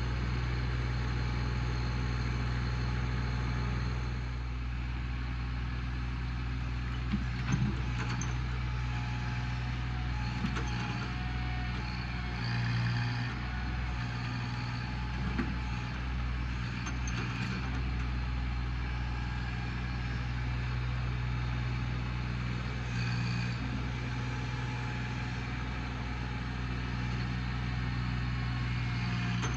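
Small tractor's engine running steadily, with a few sharp cracks about seven and a half seconds in.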